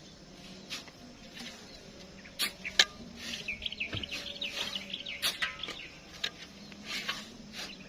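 Shovels scraping and knocking as sand is dug and thrown by hand, in irregular strokes, the sharpest about three seconds in. Birds chirp rapidly from about three seconds in.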